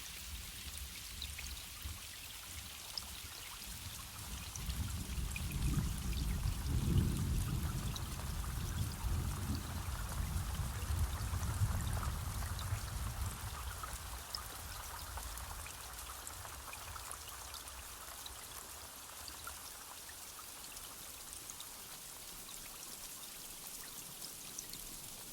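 Steady rain with many small drips, and a low rumble that swells a few seconds in and fades away about ten seconds later.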